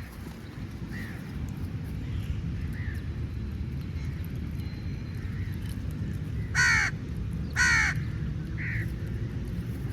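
Crows cawing: two loud, harsh caws about a second apart in the second half, with fainter caws from farther off before and after, over a steady low background rumble.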